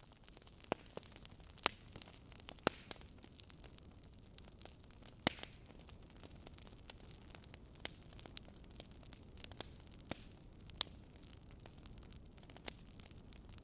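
Wood fire burning in a fireplace, crackling with sharp, irregular pops over a low, steady hiss of flames. A few pops stand out louder than the rest.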